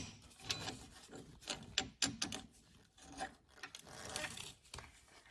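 Long 12 mm subframe bolt being unscrewed with a hand ratchet and deep socket: irregular bursts of scraping and clicking as the bolt is worked out.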